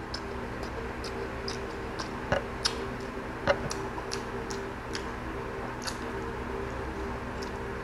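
A person chewing and smacking a mouthful of food: scattered soft wet mouth clicks, a few louder ones between about two and three and a half seconds in, over a steady low hum.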